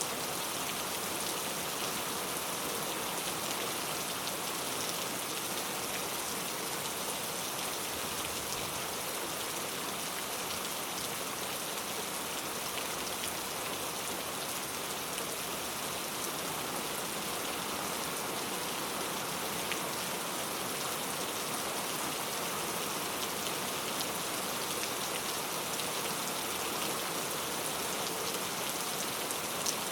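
Steady rainfall, a constant hiss of rain with fine drop patter that neither builds nor fades.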